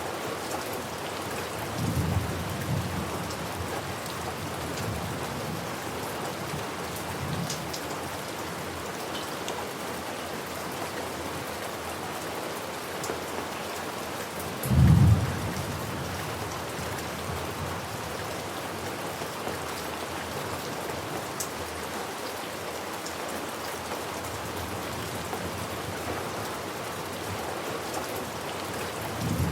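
Steady rain falling, with low rumbles of thunder: one about two seconds in, a louder, shorter one about halfway through, and another at the very end.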